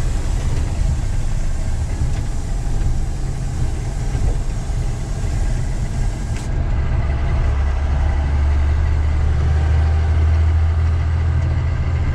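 Diesel truck engine and road noise while driving, a steady drone. About seven seconds in, a deeper low drone comes up and holds.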